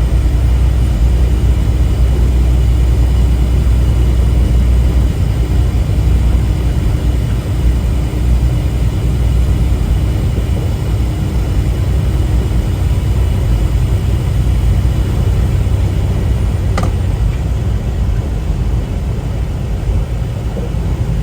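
Steady drone of a semi truck's engine and road noise heard inside the cab while driving, with one sharp click near the end.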